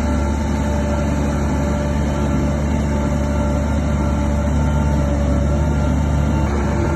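Heavy diesel earthmoving machinery running steadily under load, a deep engine drone with a slight change in its low note near the end.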